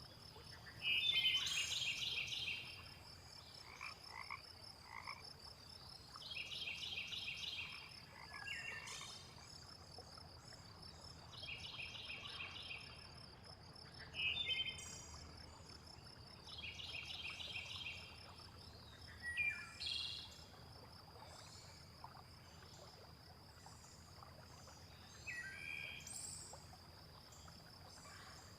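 Frogs calling: a rattling, pulsed croak lasting about a second and a half that repeats roughly every five to six seconds, with a few shorter calls between, over a steady high insect trill.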